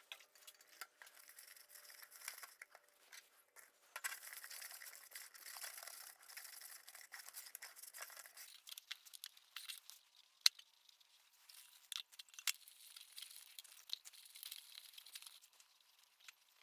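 Ceramic fibre insulation blanket being torn and handled, a faint rustling and tearing with scattered sharp clicks.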